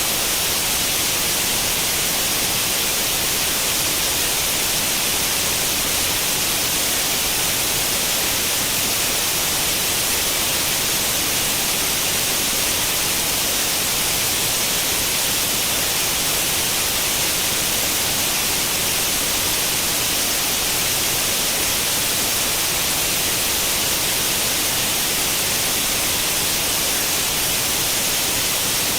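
Steady white-noise hiss of analogue TV static, the sound of an old tube television with no channel tuned in. It is even and unchanging, with its weight in the high hiss.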